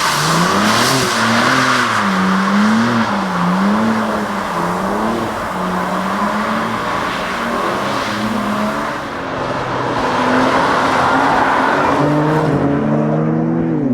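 BMW M4 Competition's twin-turbo straight-six engine running under load, its note rising and falling repeatedly as the revs change.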